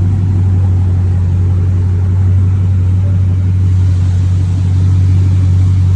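Dodge Scat Pack's 392 HEMI V8 running steadily through a straight-piped 3-inch exhaust with the mid and rear mufflers deleted, giving a loud, deep, even drone.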